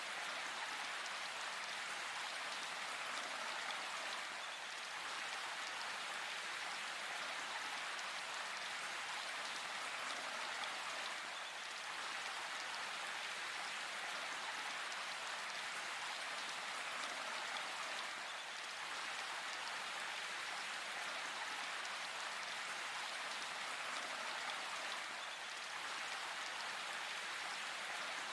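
Steady rain falling in a forest, an even hiss of many raindrops with no change in strength.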